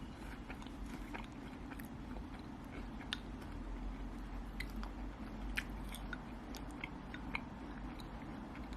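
A person chewing and biting food, with scattered small crunches and mouth clicks over a steady low hum.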